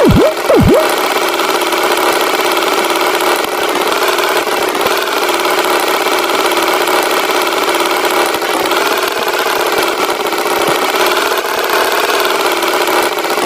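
Cartoon tractor engine running steadily. Right at the start, two quick swooping effects about half a second apart each plunge down in pitch and spring back up.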